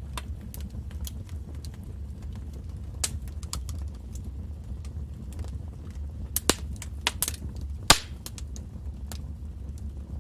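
Wood fire burning in a fireplace: a steady low rumble of flames with scattered crackles and a few louder pops, the loudest about eight seconds in.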